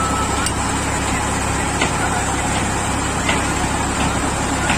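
Tractor engine running steadily while threshing paddy, with a few faint clicks or rattles.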